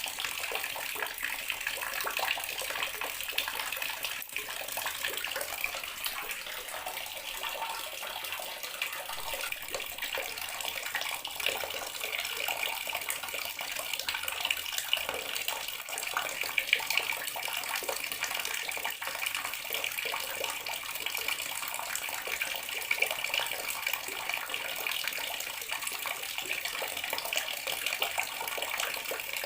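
Bathroom water tap running in a steady stream, splashing into the basin below.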